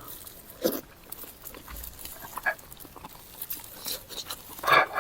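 Close-miked eating mouth sounds: wet smacking and chewing in short bursts. The loudest, fullest mouth noise comes near the end.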